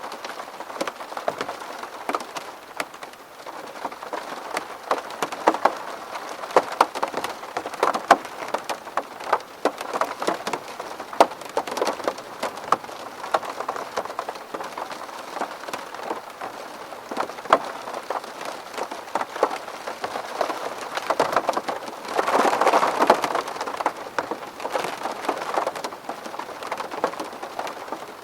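Steady rain falling on a window pane: many sharp drop ticks over a constant hiss, swelling heavier for a couple of seconds about three-quarters of the way through.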